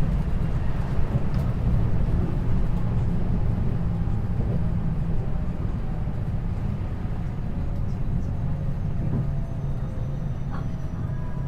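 Running noise inside a 521-series electric multiple unit's motor car: a steady low rumble of wheels on rail that slowly eases off, with a faint motor whine sliding slightly down in pitch near the end as the train slows for a station stop.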